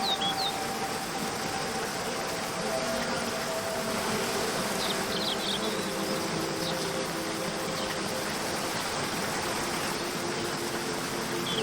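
Waterfall rushing steadily under soft background music of long held notes, with a few short bird chirps about five and seven seconds in.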